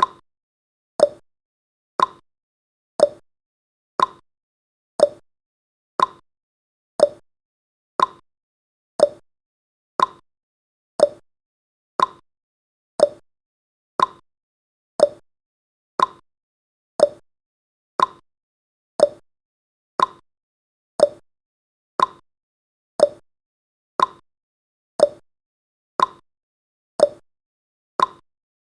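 Countdown timer's ticking sound effect: a short, sharp tick exactly once a second, steady and evenly spaced.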